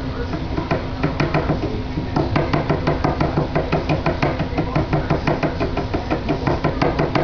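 Rapid, regular knocking or tapping, about five strikes a second, with a short pause early in the run, over a faint steady hum.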